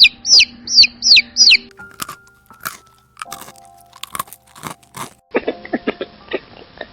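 A bird's repeated downward-sliding chirps, about two and a half a second, stopping about a second and a half in, followed by a run of crisp crunching and chewing clicks that grows denser near the end.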